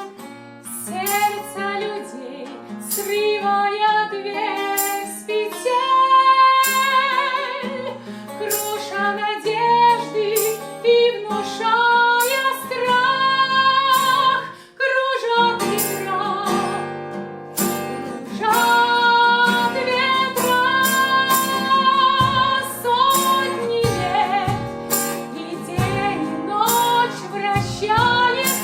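Music: female voices singing a Russian pop-ballad melody over instrumental accompaniment, with a steady percussive beat.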